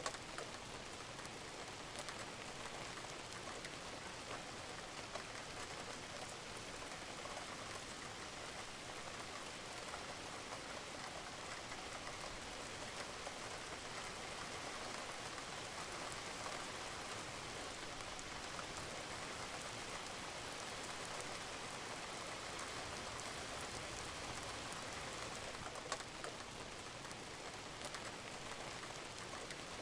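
Steady rain falling on a roof, an even hiss with scattered individual drops ticking and dripping.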